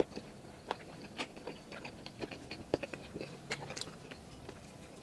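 A person chewing a mouthful of grilled balut (duck embryo egg), picked up close: soft, irregular mouth clicks and smacks.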